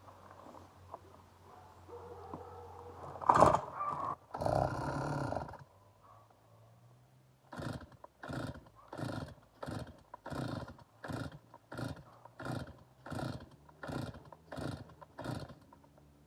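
Stihl MS 290 two-stroke chainsaw being pull-started over and over: a sharp knock and a brief burst of noise, then about a dozen quick rasping pulls of the recoil starter, roughly three every two seconds, without the engine catching. It is an intermittent no-start that the owner means to fix with a rebuild.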